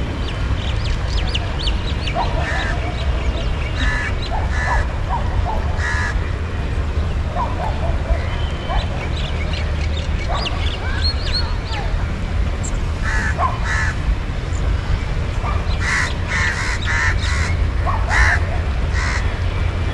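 Many short bird calls over a steady low rumble, the calls coming thickest in a run near the end.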